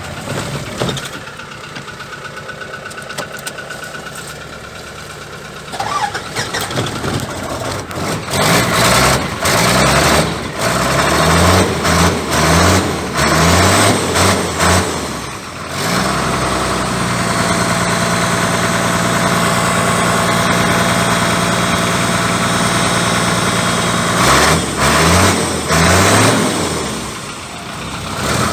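Isuzu 6HE1 inline-six diesel engine in an Isuzu Forward truck, started and then revved in a series of quick blips, each rising and falling in pitch. It settles to a steady idle before being blipped a few more times near the end.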